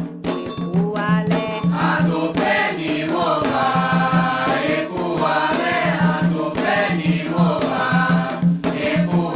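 Several voices singing a Yoruba-language Afro-Brazilian chant to the orixá Xangô, over a repeating low beat.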